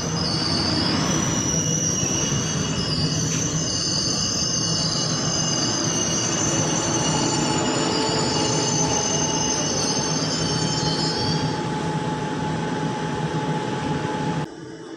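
Train rolling along the track, a steady rumble with high-pitched wheel squeal that fades out about three-quarters of the way through. The sound drops off abruptly just before the end.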